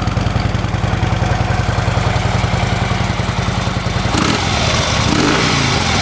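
2011 Harley-Davidson Ultra Classic's 96-cubic-inch V-twin idling through its stock factory exhaust with a steady, loping beat; it runs fairly quiet. The engine note changes briefly about four seconds in.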